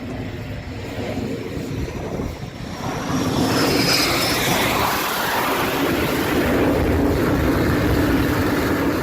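Airplane engine noise running steadily with a low hum, growing louder about three seconds in, with a faint high whistle above it.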